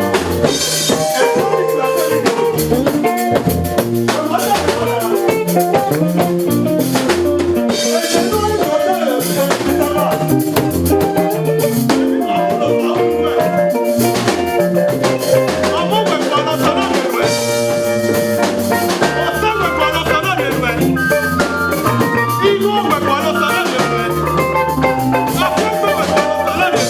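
Upbeat live worship music with a drum kit and keyboard-type instruments playing a steady beat.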